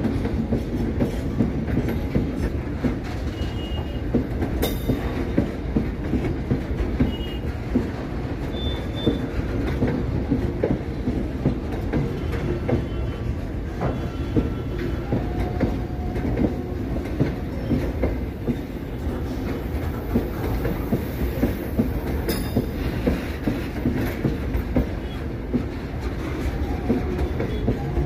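Container wagons of a freight train rolling past: a continuous rumble of steel wheels on rail with a clickety-clack over the rail joints. Brief thin wheel squeals come now and then, and there is a sharp clank twice.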